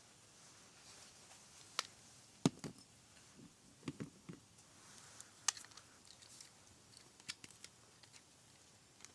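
Scattered sharp clicks and a few soft knocks of small objects being handled, over a faint steady hiss.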